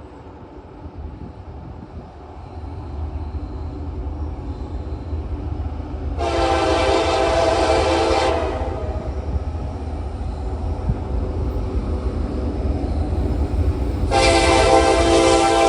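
Diesel freight locomotive approaching, its low engine rumble growing louder, sounding its air horn twice: a blast of about two seconds some six seconds in, and another starting near the end.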